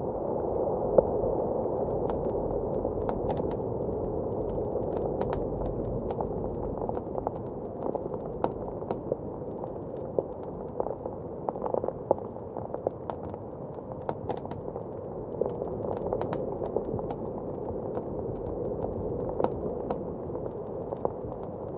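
Wood fire crackling, with irregular sharp pops scattered throughout, over a steady, muffled howl of blizzard wind that swells a little near the start and again toward the end.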